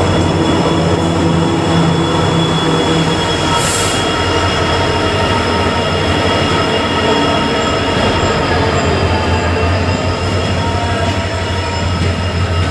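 A train moving along the track with its wheels squealing: several thin, high squealing tones that drift slowly in pitch over a steady low rumble.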